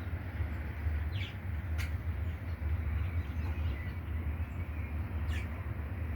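A few faint, short budgerigar chirps over a steady low rumble.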